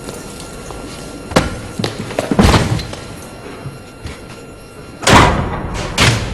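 A run of heavy, echoing thuds and slams over a steady noisy background, with two small hits and then two loud ones near the end, the first of those two the loudest.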